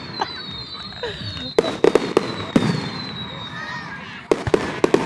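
Fireworks display: a few sharp bangs in the middle, then a quick run of crackling bursts near the end, with crowd voices in the background.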